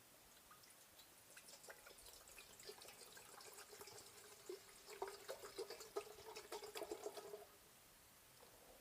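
Water being poured into a vessel, a faint splashing, gurgling pour lasting about six seconds that stops suddenly.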